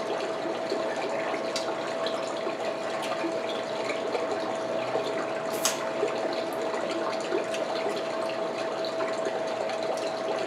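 Steady rushing background noise with a constant hum, and scattered small clicks and cracks of someone eating king crab legs, the sharpest about halfway through.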